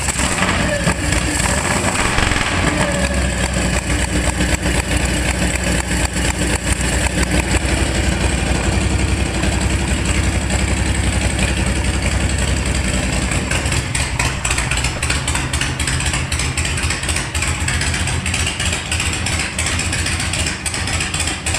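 Harley-Davidson shovelhead V-twin motorcycle engine running at idle on a newly fitted Daytona Twin Tec VT-I electronic ignition, its engine speed shifting slightly about two-thirds of the way through.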